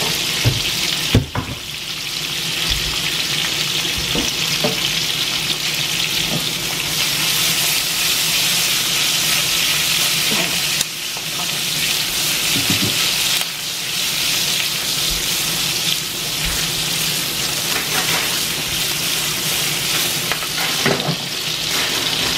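Small green peppers frying in hot oil in a pan: a steady sizzle, with a couple of sharp knocks about a second in.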